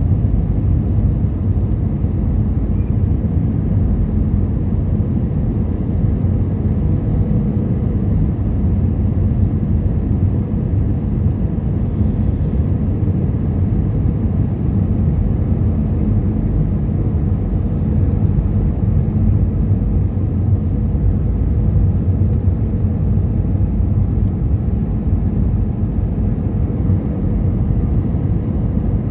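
Airbus A320 in flight heard from inside the cabin: a steady, loud drone of engines and airflow, deepest in the low range, with no change in pitch or level.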